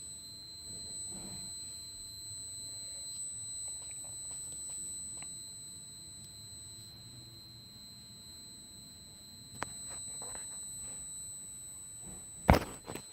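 A steady, high-pitched electronic tone held without a break, played as 'the loudest' sound; a sharp knock comes near the end.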